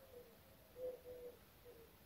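A bird calling faintly: short low notes repeated over and over, often in pairs.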